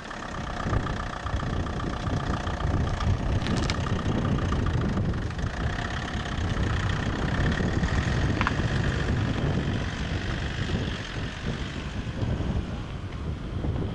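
A motor vehicle's engine running steadily, with a continuous low rumble.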